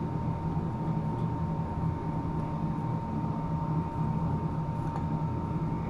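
Steady drone of a running ventilation blower aboard a ship, a low hum with a constant high whine over it.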